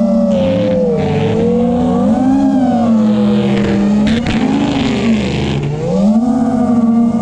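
5-inch FPV quadcopter's brushless motors and propellers whining, the pitch rising and falling smoothly as the throttle changes, with a short knock about four seconds in.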